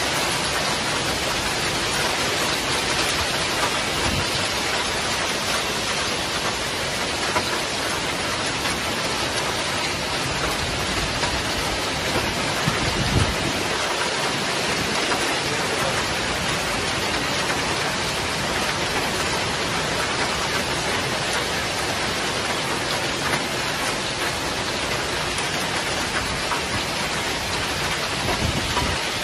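Heavy rain pouring down in a severe storm, a dense, even hiss with no letup. About halfway through comes a brief low rumble.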